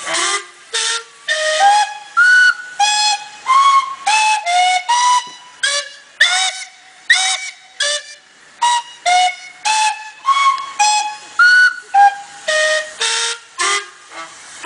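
Steam whistles of a line of traction engines sounded one after another in a 'Mexican wave': short blasts in quick succession, about two to three a second, each whistle at a different pitch.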